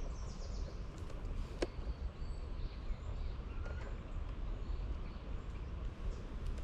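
Faint songbird chirps and short high calls over a steady low rumble, with one sharp click about a second and a half in.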